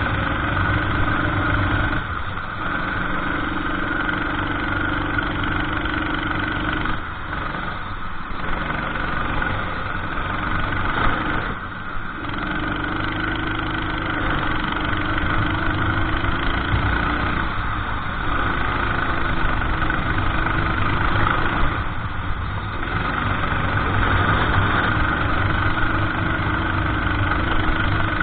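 Racing kart engine running hard on a lap, its note dropping briefly several times as the throttle is lifted for corners, then pulling back up.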